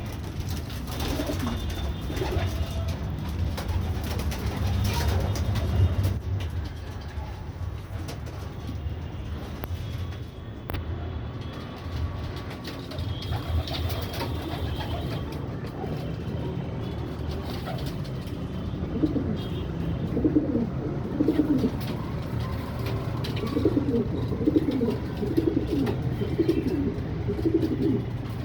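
Pigeons cooing: a series of low, warbling coos that come thicker in the second half, over a steady low rumble.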